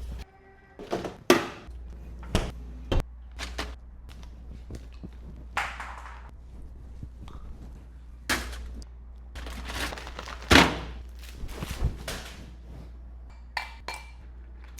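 Groceries and kitchen containers being handled and set down: a string of separate knocks, thunks and light clinks, with a loud knock about ten and a half seconds in, over a steady low hum.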